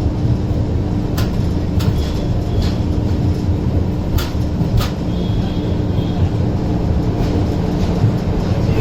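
Passenger train running on the rails: a steady low rumble with a constant hum and a few sharp, irregular clicks.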